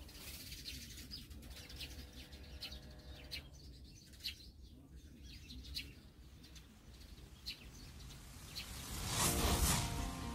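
Small birds chirping in short, repeated high calls over a low steady background rumble. Near the end comes a loud rush of noise about a second long, the loudest thing here.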